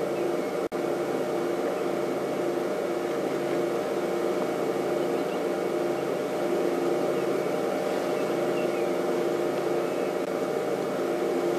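Safari game-drive vehicle's engine running steadily. The sound cuts out for an instant under a second in.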